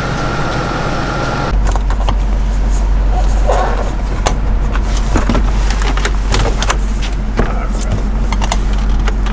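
Steady low rumble of a vehicle, heard from inside the rigged-out Suburban, with many scattered clicks, knocks and rattles. The rumble grows louder about a second and a half in.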